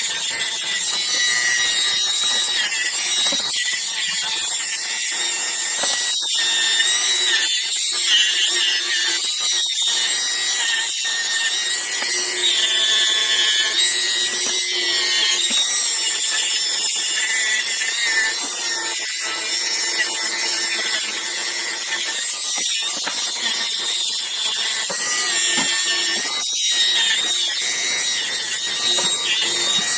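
Dremel rotary tool running at high speed with a small fiber abrasive wheel, grinding rust off steel grooved pliers: a steady high whine and scrubbing, broken by brief gaps as the wheel comes off the metal.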